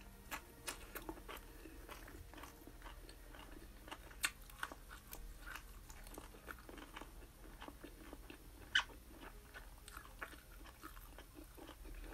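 A person chewing a hand-eaten meal of fried chicken wings, bacon and rice: quiet chewing with scattered crisp crunches and clicks, the sharpest a little after 4 s and near 9 s.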